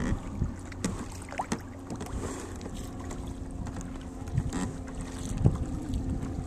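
Kayaking on open water: a paddle dips with small, irregular splashes and water laps against the hull, while wind buffets the microphone with a low rumble.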